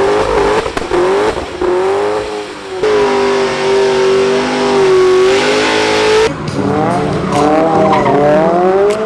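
Drift car engine held at high revs, its pitch wavering up and down as the throttle is worked, with tyres squealing and skidding under wheelspin. The tyre noise is strongest in the middle, and the sound changes abruptly about six seconds in.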